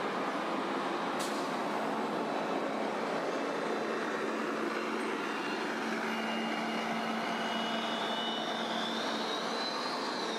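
Steady ambient background noise, like distant traffic, with a low steady hum and a faint high whine that rises near the end.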